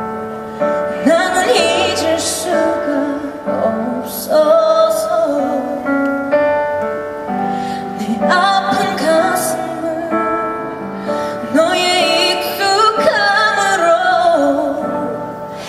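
A woman singing live over a held instrumental accompaniment, in phrases with short gaps between them.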